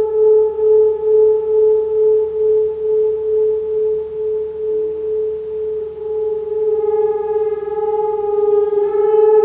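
A singing bowl being rimmed, sustaining one steady ringing tone that pulses in a slow wobble about twice a second. About two-thirds of the way through, brighter upper overtones come in and the tone swells slightly.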